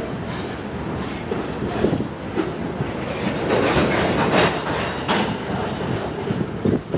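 Railroad cars rolling past close by, a steady rumble with wheels clicking over rail joints.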